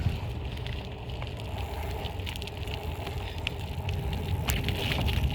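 Riding noise from a BMX bike in motion: a steady low rumble of wind on the phone's microphone with scattered small crackles and clicks.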